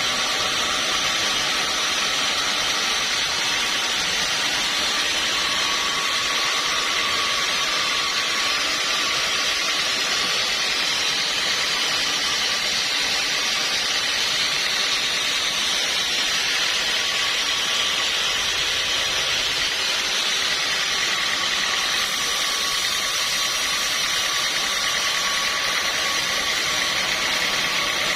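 Sawmill machinery running steadily: a constant mechanical noise with a faint steady whine.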